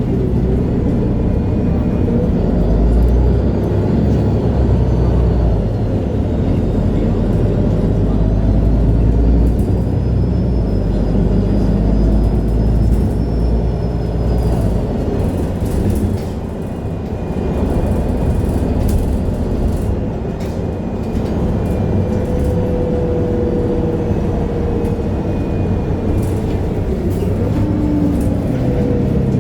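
MAN Lion's City G articulated city bus driving, its diesel engine pulling with a deep drone for the first half, then easing off about halfway through as the bus rolls on more quietly. A faint high whine rises and falls in the middle, with light rattles throughout.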